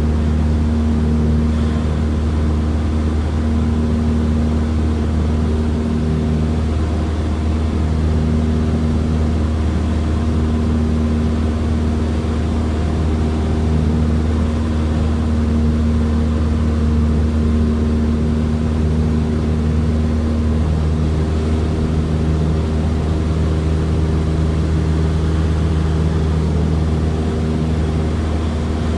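Cessna 172 engine and propeller heard from inside the cabin in cruise: a loud, steady, deep drone with a few held engine tones above it, unchanging throughout.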